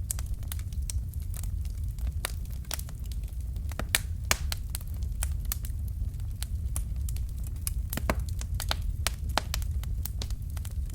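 Fire crackling: irregular sharp pops and snaps, a few louder ones about four seconds in, over a steady low rumble.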